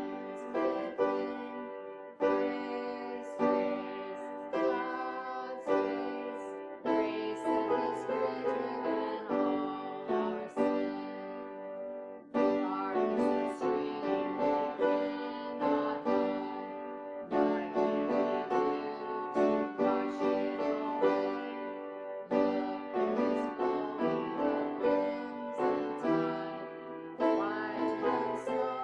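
Piano playing a slow, hymn-like piece in chords, each struck note ringing and then dying away.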